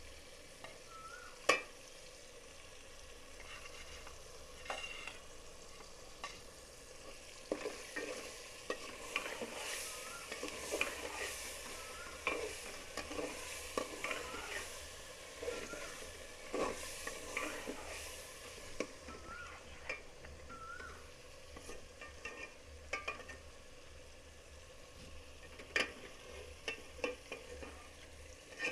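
A spoon stirring chicken and spices frying in oil in a cooking pot. There is a steady sizzle, with repeated scrapes and clinks of the spoon against the pot, busiest in the middle and again near the end, and one sharp clink about a second and a half in.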